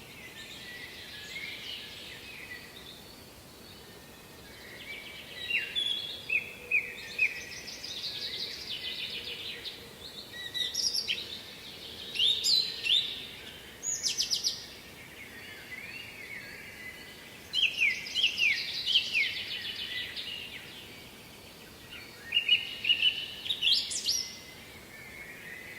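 A songbird singing short phrases of quick descending notes and trills, repeated about every two to four seconds, over a steady background noise.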